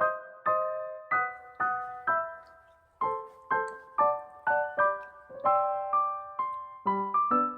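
Background piano music: a gentle melody of single notes, about two a second, each fading after it is struck, with quicker notes and a lower part coming in near the end.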